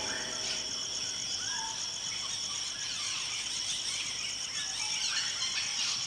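Jungle ambience: a steady, fast-pulsing high-pitched insect chorus, with scattered short, faint bird chirps.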